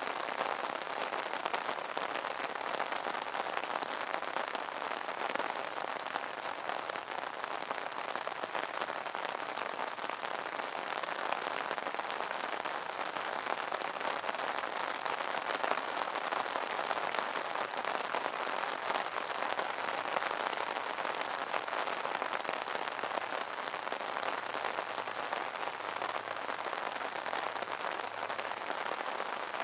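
Steady rain drumming on an umbrella canopy: a dense, even patter of drops with no let-up.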